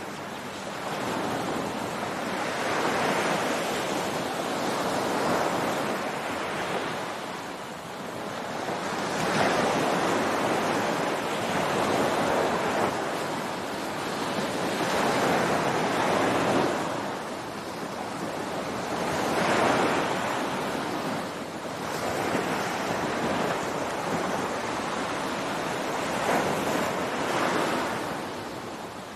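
Ocean waves breaking on a beach, the surf rising and falling in swells every few seconds, with some wind on the microphone.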